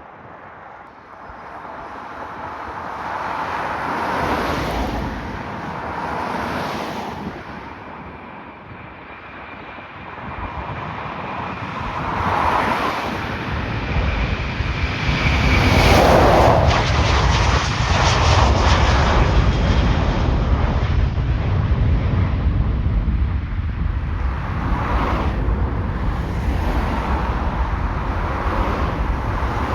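An aircraft's engines passing, growing louder, with a steady high whine until about halfway, then a deep rumble that stays loud to the end.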